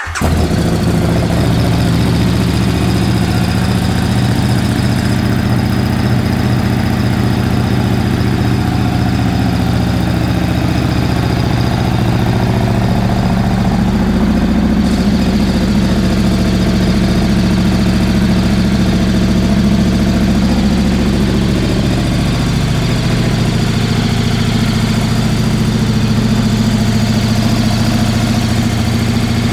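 KTM RC8R's 1195 cc V-twin engine, breathing through a full Akrapovič exhaust, bursts into life at once and runs at a steady idle with no revving.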